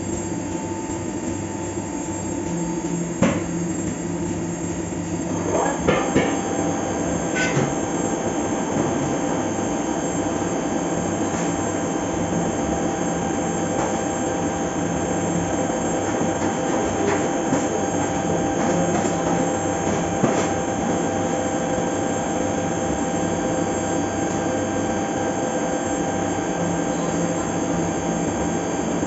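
Fagima Jazz M 5-axis CNC machining centre milling a part: a steady machining noise with several steady tones from the spindle and cutting. A few sharp clicks and knocks come about 3 seconds in and again around 6 and 7 seconds in.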